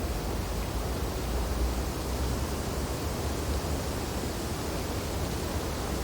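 Wind blowing steadily through tree branches in a snowfall, an even rushing noise with a low rumble underneath.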